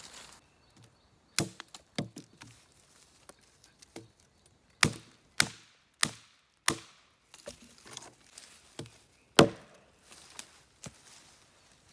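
Firewood being split for a campfire: about seven sharp wooden strikes at irregular intervals, with softer knocks in between.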